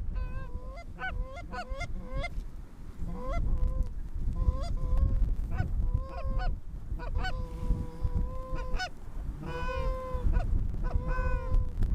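Geese honking: a quick run of short, upturned honks, then several long drawn-out honks and a burst of overlapping calls near the end.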